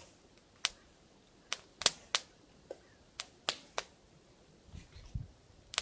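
Wood campfire crackling: about ten sharp, irregularly spaced pops, the loudest one near the end.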